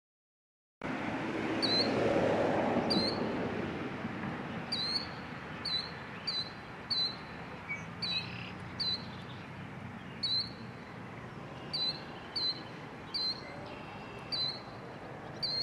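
Silence for almost a second, then a steady outdoor background hiss with a small bird chirping over and over, short high chirps that drop in pitch, roughly once a second.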